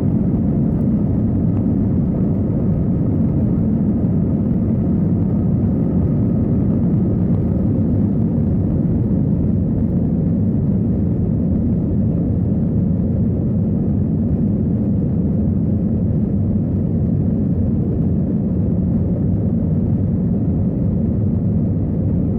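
Cabin noise inside an Airbus A321 during departure: the jet engines at take-off thrust and the rush of air past the fuselage, a steady, loud, low-pitched din that does not change.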